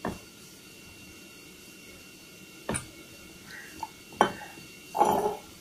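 Kitchen utensils and dishes knocking together: three sharp knocks a second or more apart, then a short scraping clatter near the end.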